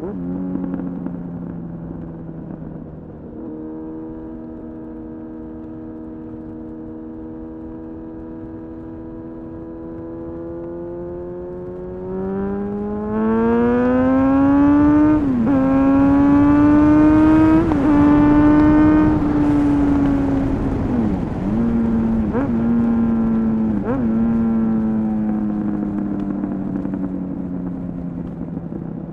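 Honda CBR-929RR Fireblade's inline-four engine through an Erion full racing exhaust while riding: steady at first, then revving up and getting louder as it accelerates, with a few brief dips in pitch. After that the revs fall slowly as it slows.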